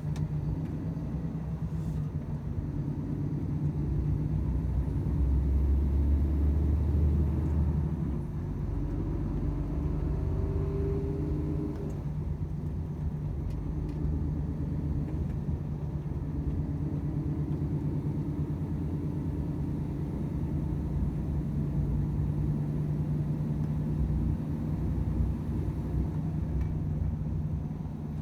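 Volvo FH 500 truck's 13-litre straight-six diesel running under way, with a steady low drone and road rumble. The low rumble swells about five to eight seconds in, and the engine tone shifts around ten to twelve seconds in.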